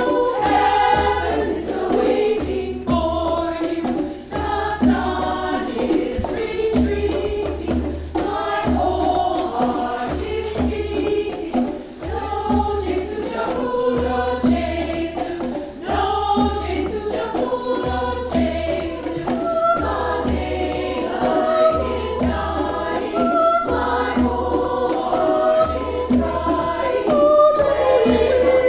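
A mixed choir singing a song in harmony, with a low, regular beat underneath about once a second.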